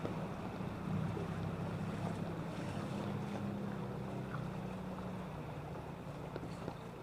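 A low, steady engine hum that fades a little after about five seconds, under a constant rushing noise of wind and water.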